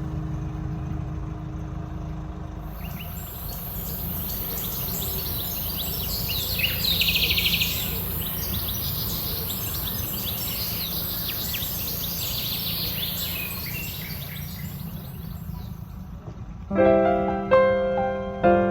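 Wind rumbling on the microphone under birds chirping and a steady high hiss. Guitar music fades out a few seconds in, and piano music comes in near the end.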